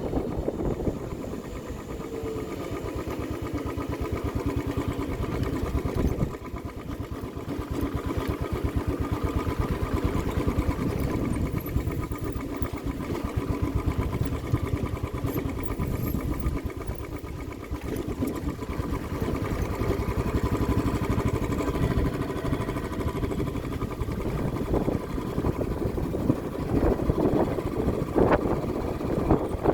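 A vehicle's engine running steadily while under way.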